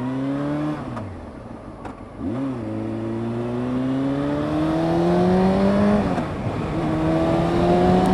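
Honda CBR600 F2's inline-four engine accelerating through the gears, the revs climbing and then dropping sharply at three upshifts, about a second, two and a half seconds and six seconds in. These are the hard, clunky shifts that the rider puts down to a clutch problem.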